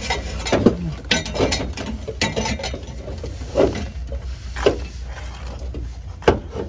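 Scattered knocks and clatter of tools and metal parts being handled during exhaust work under a car, at irregular times, over a steady low rumble.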